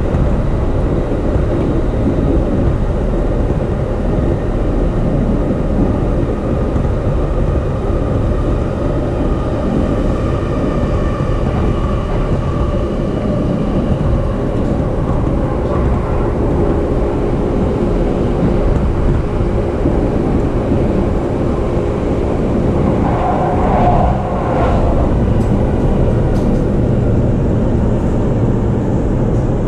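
E233-series electric commuter train running, with a steady rumble of wheels on rail from inside the carriage and a brief louder patch a little past the middle.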